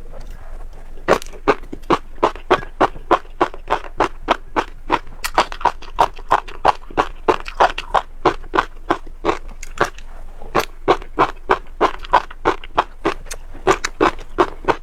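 Close-miked chewing: seeds being bitten and crunched in the mouth, a steady run of crisp cracks at about three a second.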